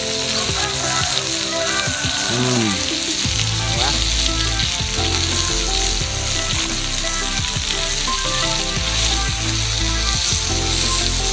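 Beef with garlic and chilli frying in hot fat, a steady, loud sizzle.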